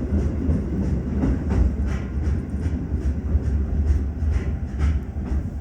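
Tokyo Metro 15000 series subway train, heard from inside the car: a steady low rumble with short clicks now and then.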